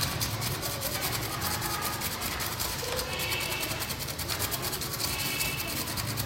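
A brush scrubbing back and forth in rapid strokes over a phone logic board, sweeping away scraped-off underfill glue residue, over a steady low hum.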